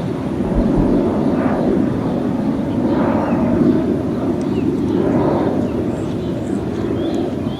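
Departing jet airliner after takeoff: a steady low engine rumble that swells and eases slightly.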